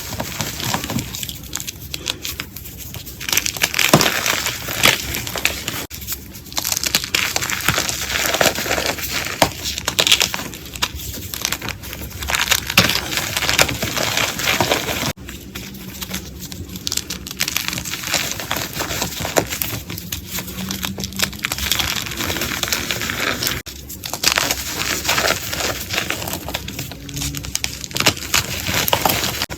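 Blocks of gym chalk being crushed, a dense crunching crackle that runs on through several short clips, with abrupt changes where one clip cuts to the next.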